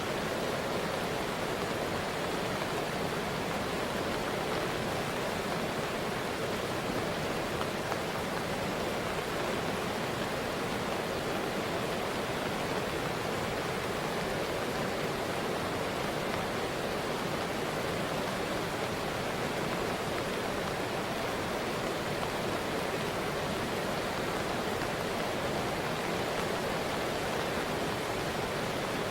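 Steady rush of fast-flowing river water, a river running high in flood.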